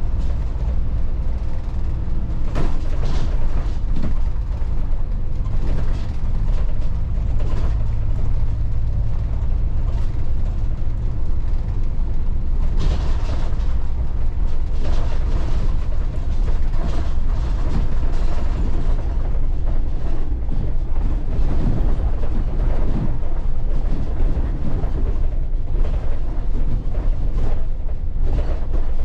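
Inside a Volvo 8900 bus on the move: a steady low engine rumble under frequent creaks, clicks and rattles from the body and fittings as it drives along a rough, narrow road.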